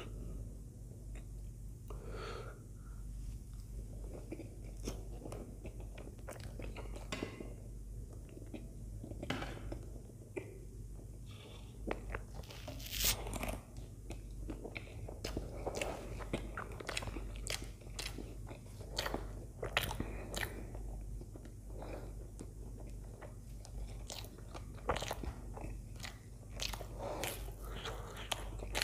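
Close-miked eating of soft idli soaked in sambar: wet chewing with frequent lip smacks and mouth clicks throughout. Around 13 seconds in comes a louder, longer slurp from a spoon of sambar.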